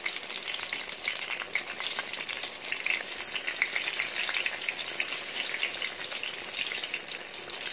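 Eggplant slices frying in hot oil in a wok: a steady sizzle with fine crackling.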